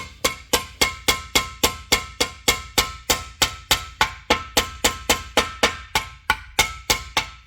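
A hammer striking metal over and over in a steady rhythm, about three and a half blows a second, each blow ringing briefly.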